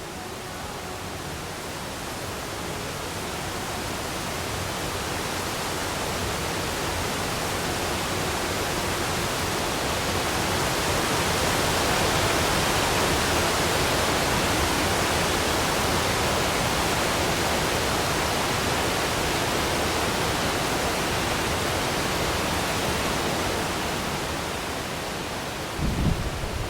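Water rushing over a river weir: a steady, even rush that swells to its loudest about halfway through and then eases off.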